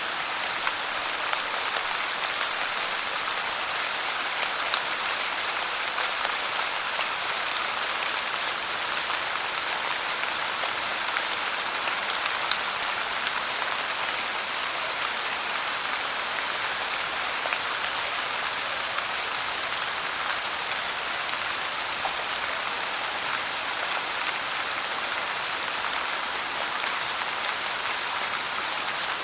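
Steady rain falling: an even hiss with small scattered drop ticks throughout, no change in strength.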